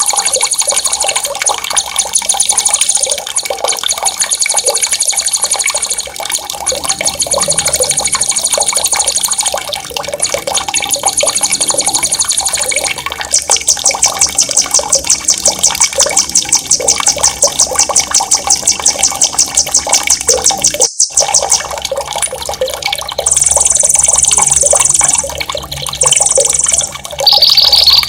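Songbirds singing rapid, high-pitched rolling trills in repeated bursts, including one long fast trill of about eight seconds near the middle, over a steady sound of running water.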